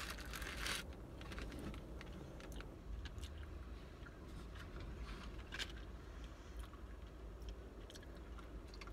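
A person chewing a bite of brisket sandwich close to the microphone: soft crunching and small wet mouth clicks, with a brief burst of crunching at the start.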